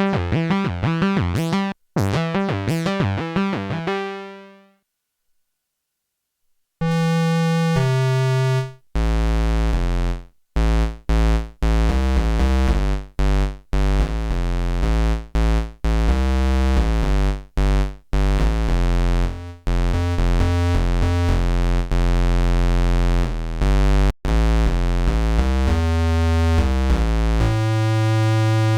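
Behringer JT-4000M synthesizer playing factory preset patches. A fast run of notes fades out about four seconds in. After a short silence, a new patch starts: a deep bass line under short, chopped notes in a stop-start rhythm.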